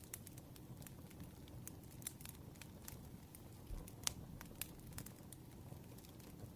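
Wood fire crackling, with irregular sharp pops and snaps over a low steady rumble; one louder pop about four seconds in.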